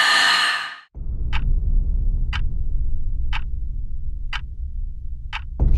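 A clock ticking about once a second over a low, steady rumble, after a brief rushing noise that cuts off just before the first tick.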